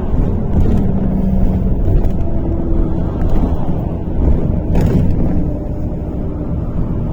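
MAZ-103 city bus heard from inside the passenger cabin while under way: a steady low engine and road rumble, with engine tones shifting in pitch. There is one short knock a little before five seconds in.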